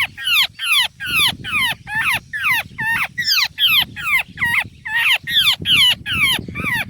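A freshly trapped bird calling rapidly and without pause, about three short, sharp, downward-sliding calls a second, with rustling underneath.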